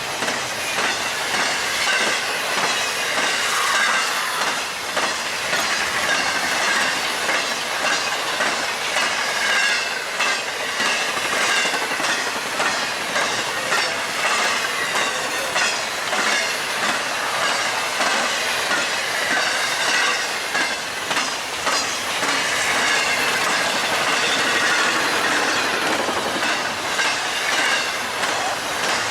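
Freight train cars rolling past at speed: a continuous rushing rumble of steel wheels on rail, with a rapid, regular clickety-clack of wheels over rail joints and a faint high wheel squeal.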